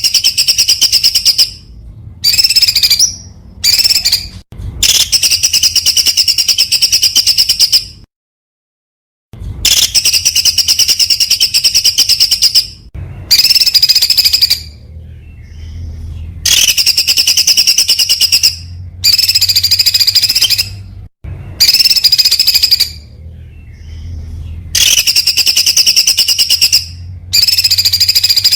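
Songbird singing in bursts of very fast, high-pitched rapid-fire notes, each burst one to three seconds long and repeated after short pauses, with a low hum beneath. The song breaks off completely for about a second after roughly eight seconds.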